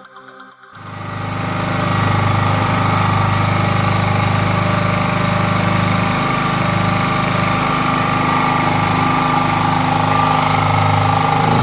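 Background music cuts off under a second in, then a home generator's small engine runs steadily. The engine has just been reassembled with its repaired cylinder head and is on a test run.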